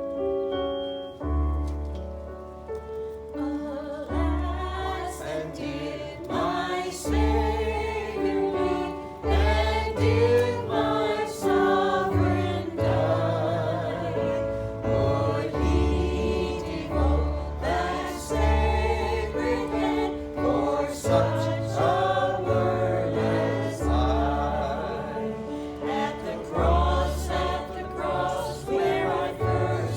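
Several voices singing a gospel worship song together over instrumental accompaniment, with low bass notes changing every second or two.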